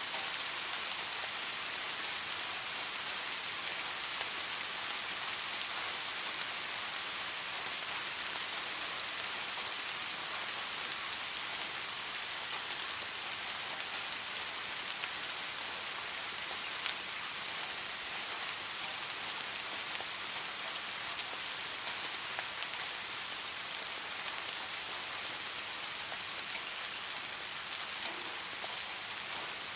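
Steady rain falling, with a dense even hiss and scattered individual drop ticks.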